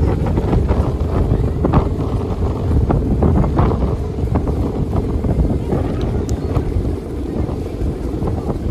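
Strong wind buffeting the microphone: a loud, continuous low rumble with frequent short crackles as gusts hit.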